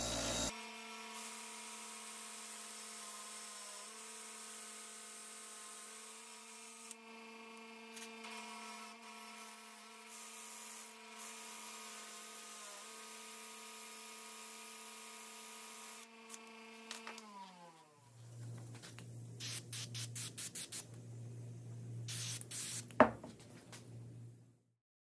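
Bench grinder's wire wheel running steadily with a scratchy hiss as a rusty steel rod, turned by a cordless drill, is held against it to scrub off the rust. About 17 seconds in the motor switches off and winds down, its pitch falling. After that comes a low hum with a string of clicks and one sharp knock near the end.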